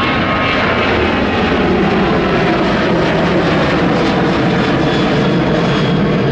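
Jet airliner engines at close range: a loud, steady rush with a tone that slowly falls in pitch as the plane passes.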